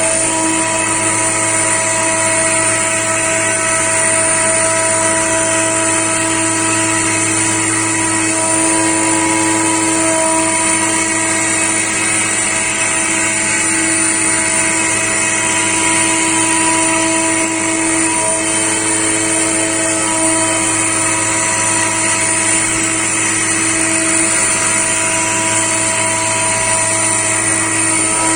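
High-speed CNC milling machine cutting: a steady spindle whine with several held tones over the noise of the cut, running unchanged throughout.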